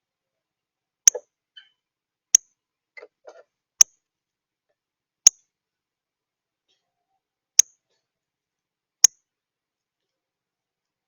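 A bird's sharp chip notes at the feeder: six short, high clicks, irregularly spaced a second or two apart, with a few faint soft rustles between the first three.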